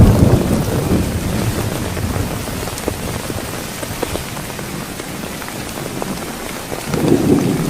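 Heavy rain falling steadily, with single drops ticking sharply on a nearby surface. A deep thunder rumble dies away in the first moment, and another low rumble swells near the end.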